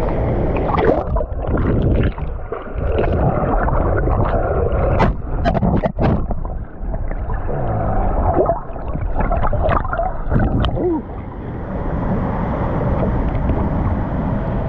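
Water splashing and gurgling close to the microphone over the steady rush of a waterfall pouring into its pool, with a few sharp knocks about five to six seconds in.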